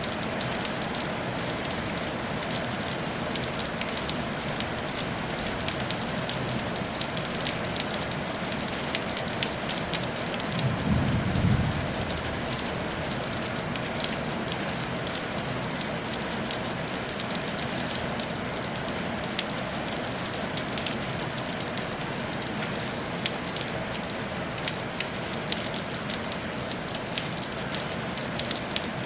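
Steady rain falling on a tile roof: a dense, even patter with scattered sharper drop ticks. About ten seconds in, a brief low rumble swells for a second or two and fades.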